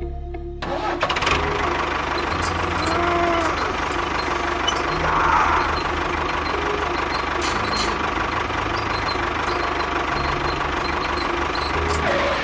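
An engine starting about a second in and then running steadily, cutting off at the end.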